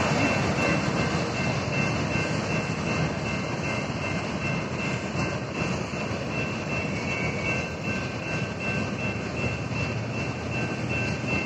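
Freight cars of a BNSF manifest train rolling through a grade crossing, a steady rumble of wheels on rail. Over it, the crossing's electronic warning bell rings on as a high ringing tone.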